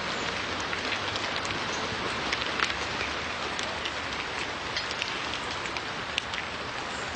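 Steady rain pattering, with scattered sharp droplet ticks over an even hiss.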